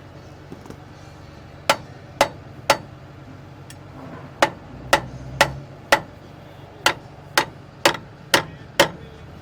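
Hammer blows during truck wheel-end and brake work, twelve sharp strikes in three runs of about two a second: three, then four, then five.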